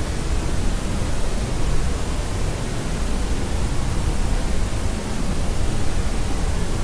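Steady sleep-aid noise: an even, unchanging hiss, heavier in the low end, like pink noise.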